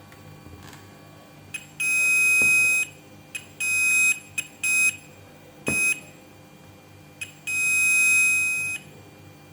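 A digital multimeter's continuity buzzer beeps five times with a steady high tone: two long beeps and three short ones, with a couple of sharp clicks of the probes on the pins. The beeping shows continuity between a MOSFET's pins, which means the transistor is short-circuited.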